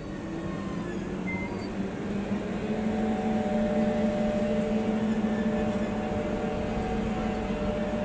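A train at a station platform making a steady mechanical hum: several constant tones over a low rumble, growing louder over the first few seconds and then holding level.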